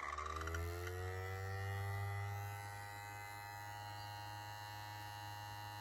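Miniature 3D-printed model of an ACA Hurricane siren winding up: its wail rises in pitch over the first second and a half, then holds a steady tone over a low hum.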